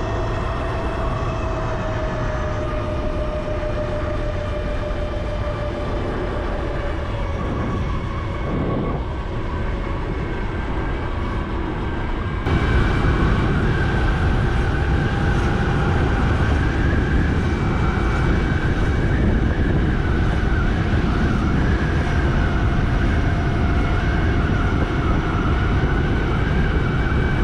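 Motorcycle under way at a steady speed: the engine's steady drone mixed with heavy wind noise on the microphone, getting suddenly louder about twelve seconds in.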